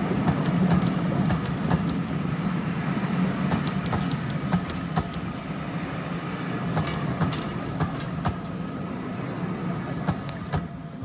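Passenger coaches rolling past on steel track: a steady wheel rumble with sharp clicks as the wheels cross rail joints. It fades toward the end as the last coach moves away.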